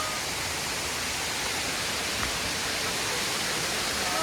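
Steady rushing roar of a large waterfall, an even noise with no breaks.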